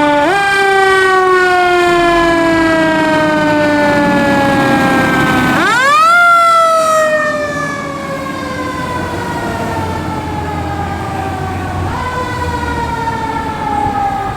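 Fire engine siren winding up and slowly falling in pitch, three times: a short rise near the start, a steep, loud climb about six seconds in, and a smaller rise about twelve seconds in.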